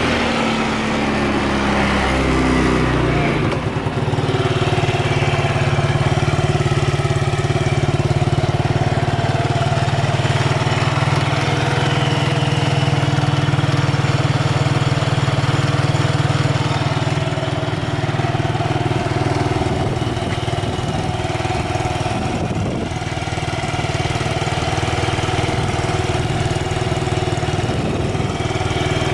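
Yamaha Majesty 125 scooter's carbureted single-cylinder four-stroke engine, through an aftermarket DCR stainless muffler. The engine comes down from higher revs to a steady idle about three seconds in, then keeps idling. The uploader describes it as running with no abnormal noise.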